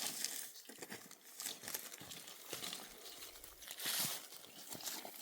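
Dry branches and brushwood rustling and crackling in irregular bursts as they are handled and pushed into place, with a louder burst about four seconds in.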